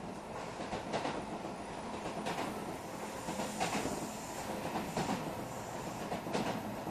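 Odakyu 8000-series commuter train (set 8059F, refitted with a SiC VVVF inverter) running at speed, heard from inside the front cab. Steady running noise with a regular clickety-clack from the wheels passing rail joints, about every second and a half.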